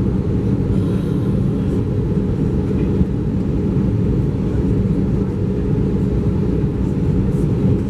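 Steady low rumble of Airbus A320 cabin noise, heard from a passenger seat, with a faint knock about three seconds in.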